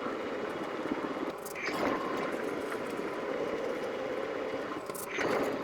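Schaublin 125 CNC lathe running while a 25 mm drill cuts through round stock: a steady cutting noise with two brief louder scrapes, about a second and a half in and near the end.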